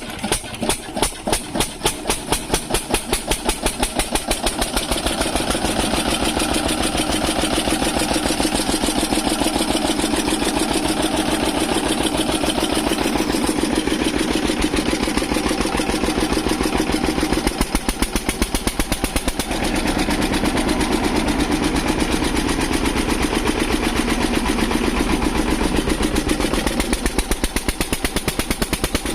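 An engine running with a fast, regular firing beat, its strokes spaced out at first and quickening over the first few seconds as it picks up speed.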